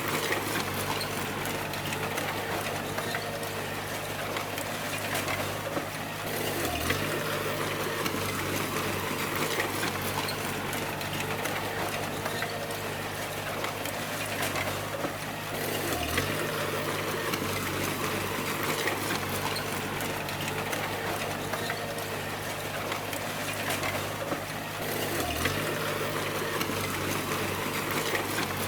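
Bulldozer's diesel engine running steadily, its note dipping briefly about every nine seconds.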